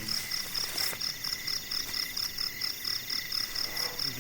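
Night chorus of insects and frogs: a high chirp pulsing about four times a second over a steady high trill, with fainter rhythmic calls lower down.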